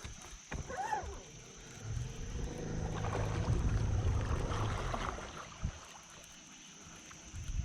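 A boat motor hums low and steady for about three seconds, swelling and then fading away. A short bird call sounds about half a second in.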